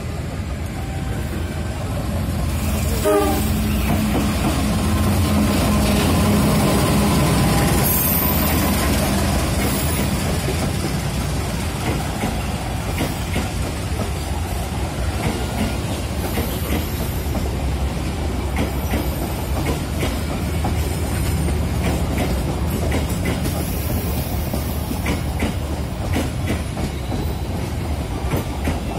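Passenger train coaches running past close by: a steady rumble and rattle of wheels on the rails, with clacking as the wheels cross the rail joints. Loudest in the first eight seconds or so.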